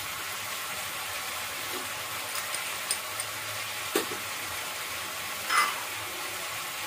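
Chicken frying in oil in a kadhai: a steady, even sizzle, with a sharp click about four seconds in and a brief clink a second and a half later.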